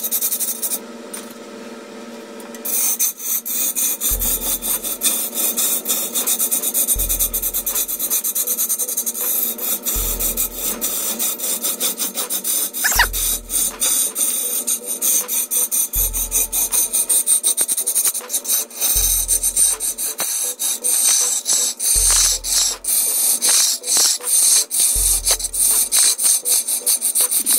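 Wood being cut and scraped by a turning tool on a spinning lathe, a continuous rasping, with electronic background music carrying a deep bass pulse about every three seconds.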